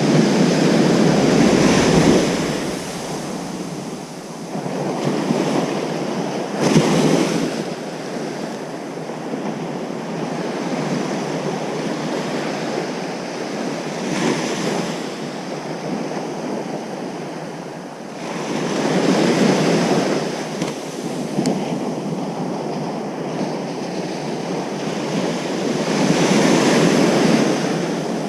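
Ocean surf breaking on a beach: a steady rushing wash that swells into louder surges as waves come in, about five times, at uneven intervals.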